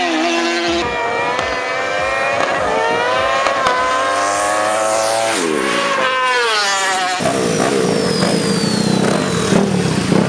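Racing motorcycle engines accelerating hard. The pitch climbs, drops sharply at a gear change about five seconds in and climbs again, then gives way abruptly to a rougher, lower engine sound a little past the seven-second mark.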